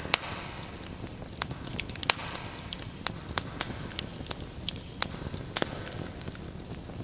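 Wood fire crackling: irregular sharp pops and snaps over a soft low hiss of burning.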